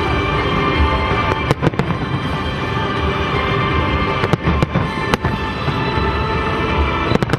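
Fireworks shells bursting with sharp bangs over the show's music: a pair of bangs about a second and a half in, three more around the middle, and a quick pair near the end, with held musical tones underneath.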